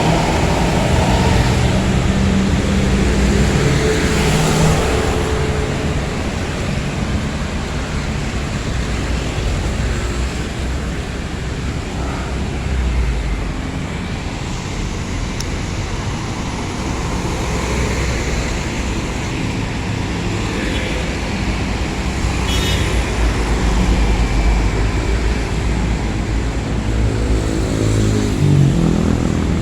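Road traffic dominated by large diesel buses: a steady engine drone with tyre and road noise. An engine note rises near the end.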